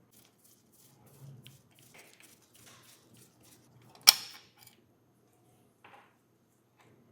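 Small parts and hand tools being handled on a workbench during work on a die-cast model car: light scraping and ticking, one sharp click about four seconds in, then a couple of small knocks.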